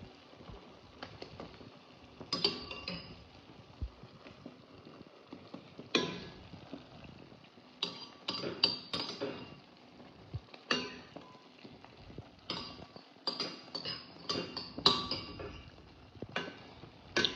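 A utensil clinking and scraping against a cooking pot while chicken pieces are turned and coated in sauce, in irregular light knocks that come more often in the second half.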